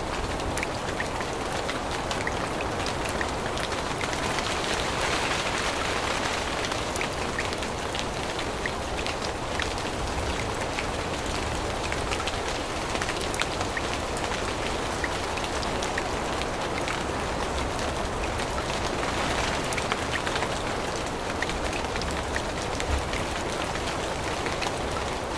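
Steady rain falling through forest foliage, with many scattered close drops ticking on leaves and surfaces.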